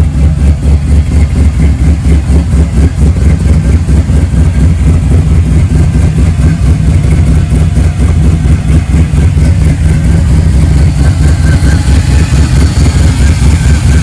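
Vehicle engine running at a steady idle with a loud, low, choppy rumble.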